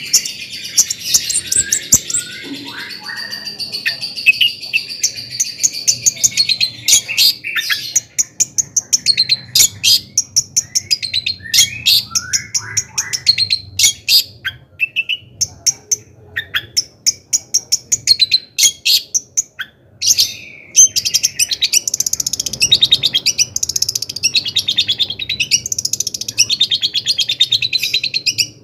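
Long-tailed shrike singing loudly: a fast, varied stream of sharp chattering notes and short whistles, running into a long rapid trill near the end.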